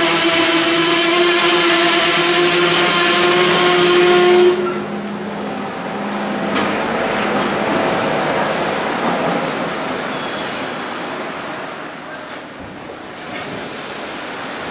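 Container wagons of a departing JR Freight train rolling past at low speed, steel wheels rumbling on the rails. For the first four seconds or so a steady pitched whine rides over the rumble and then cuts off abruptly.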